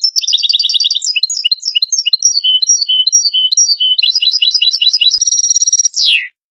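European goldfinch singing: a fast, twittering run of trilled and chirped notes, ending in a buzzy stretch and a falling note about six seconds in, then it stops.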